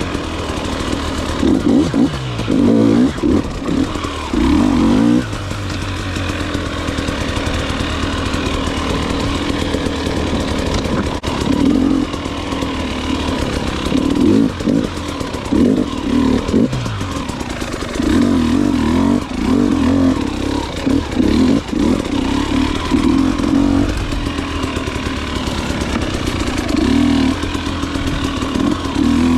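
Enduro dirt bike engine revving up and down in repeated short bursts, with a steadier stretch between them.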